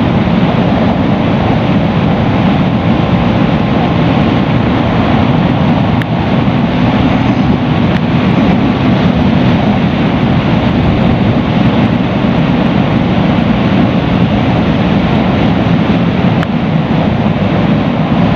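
Steady wind rush over the microphone, with the Bajaj Pulsar NS200's single-cylinder engine running at steady highway speed underneath.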